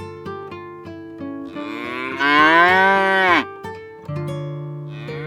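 A loud, drawn-out animal call lasting about two seconds that drops in pitch as it ends, with a second call starting near the end, over acoustic guitar music.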